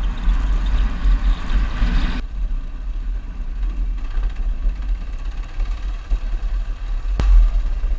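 Motorcycle on the move, with heavy wind rumble on the microphone over the engine and road noise; the higher noise drops away about two seconds in, and a single sharp click comes near the end.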